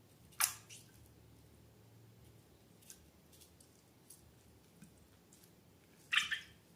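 Slime being squished and handled: two louder wet squelches, about half a second in and near the end, with faint small clicks between.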